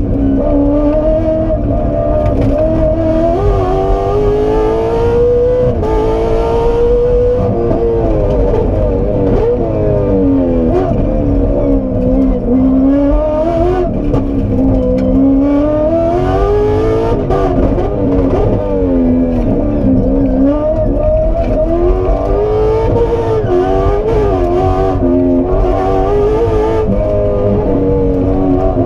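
Aston Martin Vantage rally car's engine heard from inside the cabin at full stage pace, its pitch climbing and falling again and again as it accelerates, shifts and brakes through the corners, over a constant low rumble.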